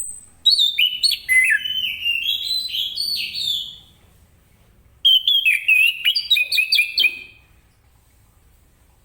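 Orange-headed thrush in full song: two long phrases of rapid, varied whistled notes, the second starting about five seconds in.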